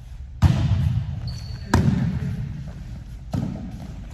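A volleyball struck three times in quick succession in a rally, each hit a sharp slap that rings briefly in the gym; the first two are the loudest.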